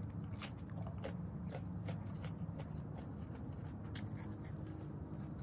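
Chewing and mouth sounds of a person eating food by hand, with scattered soft clicks, over a low steady background hum.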